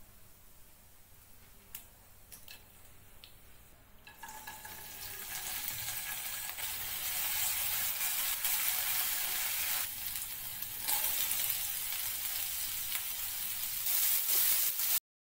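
Hot oil sizzling in a kadai as dry red chillies and garlic fry and are stirred with a spatula. It is faint at first with a few light clicks, then the sizzle starts about four seconds in and grows louder, rising again near the end as chopped onions go in, before cutting off suddenly.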